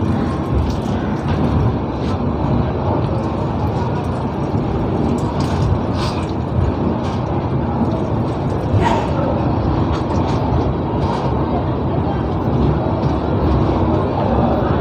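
Passenger train noise: a steady rumble with scattered clicks and knocks.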